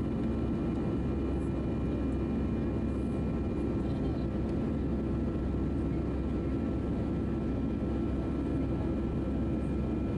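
Steady cabin drone of an Airbus A319-111 in flight: its CFM56 turbofan engines and airflow heard from inside the passenger cabin, an even low rumble with a few faint steady whining tones over it.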